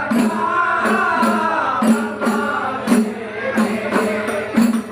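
Rudat ensemble: men chanting together in unison over the beat of hand-struck frame drums. The chanting is strongest in the first two seconds, and the drum strokes continue throughout.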